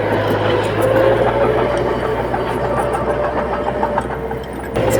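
Heavy diesel engine of earthmoving machinery running steadily: a low, even hum under a wavering mid-pitched whine. The sound breaks off abruptly just before the end and picks up again.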